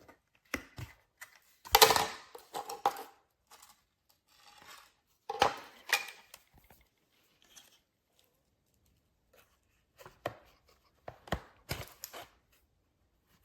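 Scattered clicks, knocks and rustles of hard plastic parts being handled, with the loudest cluster about two seconds in and a few sharp clicks near the end.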